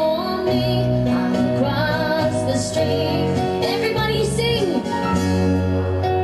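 A woman singing with vibrato over an instrumental backing track.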